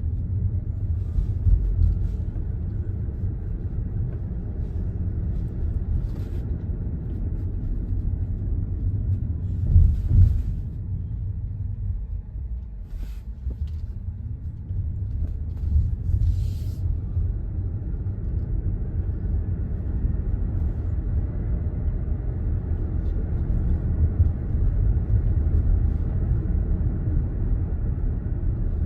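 Low, steady road and tyre rumble heard inside a moving Tesla, an electric car with no engine note. It eases off briefly about midway, and a few short clicks stand out above it.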